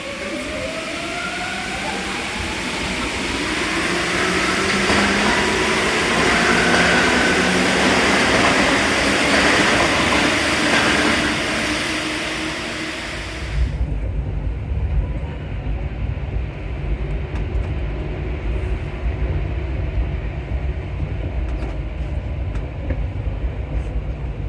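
Paris Metro MP14 train pulling away, its traction motors whining in several tones that glide steadily upward as it gathers speed, over a loud hiss. About fourteen seconds in, the high hiss drops away suddenly and a low rumble with light clicks remains as the train runs on.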